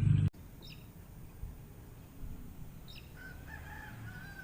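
Birds calling in the open: two short high chirps, then a longer wavering whistled call starting about three seconds in. A low rumble cuts off abruptly at the very start.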